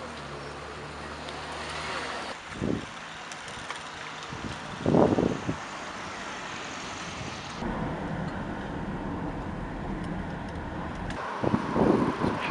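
Road traffic noise, with motor vehicles passing and a few short louder swells. The background changes abruptly three times, as between cut-together clips.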